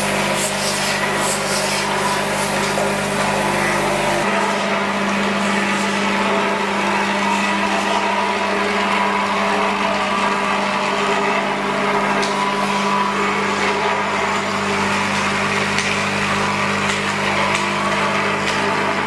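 Vibratory bowl feeder running: a steady electromagnetic hum from the vibrating base with the rattle and clatter of sheet-metal washing-machine parts travelling around the stainless steel bowl. A lower hum drops out about four seconds in.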